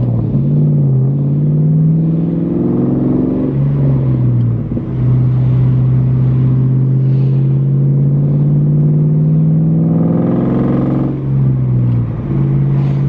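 Ford Mustang's engine under acceleration: it rises in pitch, drops back about four seconds in as it shifts, holds a steady cruise, then rises and dips again near the end.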